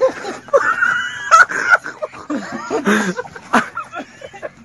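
A dog whining: a drawn-out high whine that starts about half a second in and lasts over a second, with a couple of sharp knocks.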